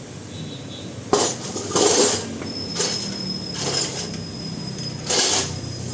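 Metal tools and parts clinking and clanking in a workshop, about five separate knocks a second or so apart.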